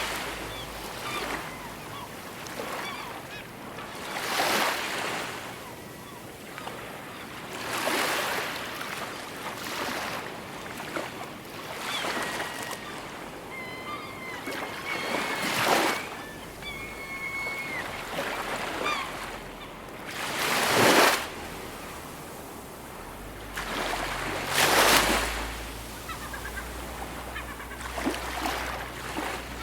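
Ocean waves breaking and washing on a shore, a swell of surf every few seconds. A bird calls several times in short pitched calls near the middle.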